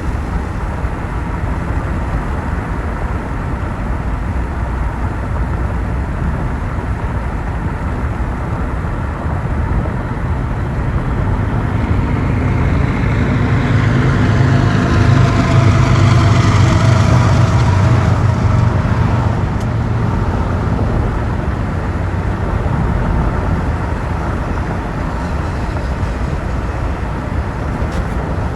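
Car driving on a rain-wet road: steady tyre and road noise throughout. About halfway through, a louder passing sound swells up and fades away over several seconds.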